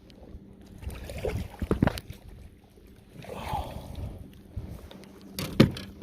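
Knocks and bumps on a kayak with handling noises as a bass is landed, the loudest knock just before the end, over a faint steady hum.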